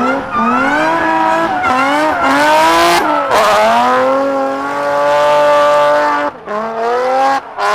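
Drift car engine revving hard, its note climbing and falling repeatedly and then held high for a couple of seconds, with tires squealing under it. The sound breaks off briefly twice near the end.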